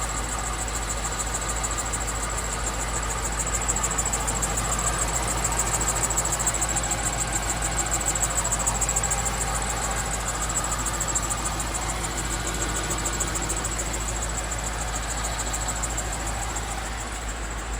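2003 Holden VY SS Commodore's 5.7-litre LS1 V8 idling steadily.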